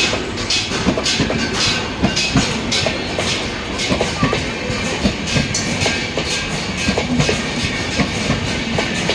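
Train running at full speed, its wheels clattering over rail joints in a quick, uneven series of knocks over a steady rushing noise.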